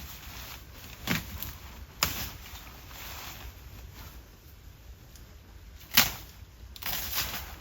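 Three sharp knocks, the last the loudest, over a low steady hum with faint rustling between.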